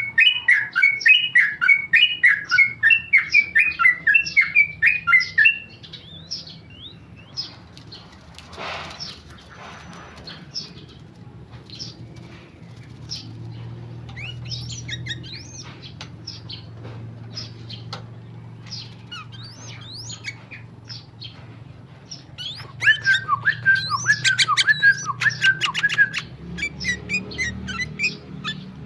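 Yellow-vented bulbul singing in rapid runs of quick repeated notes, loud at the start and again from about two-thirds of the way in, with softer scattered calls between.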